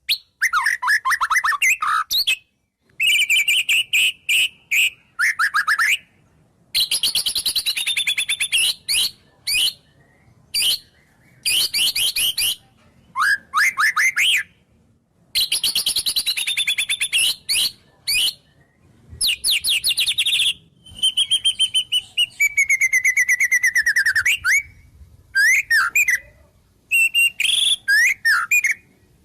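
White-rumped shama singing a varied song full of phrases mimicked from wild birds: loud bursts of fast trills, rapid repeated notes and sweeping whistles, each a second or two long, with short pauses between them.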